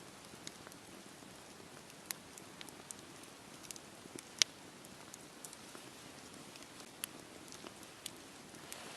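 Campfire burning: a steady soft hiss under scattered sharp crackles and pops, the loudest pop about four and a half seconds in.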